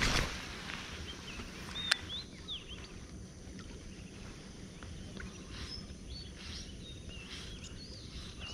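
Birds chirping in short rising and falling calls over faint outdoor background noise. There is a brief louder rush at the very start and a single sharp click about two seconds in.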